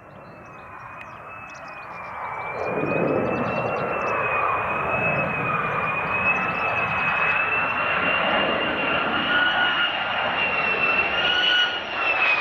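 Military fighter jet engines, rising from faint to loud over the first three seconds and then holding steady, with a high whine that wavers slightly in pitch.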